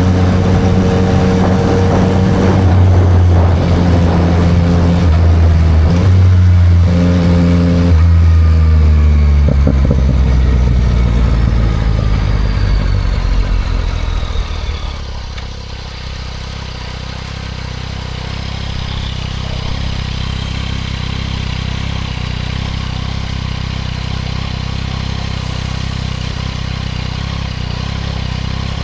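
2024 Yamaha MT-09 SP's inline three-cylinder engine through a Spark full exhaust, pulling loudly for the first ten seconds or so, then falling in pitch as the bike slows, and settling to a steady, quieter idle about halfway through.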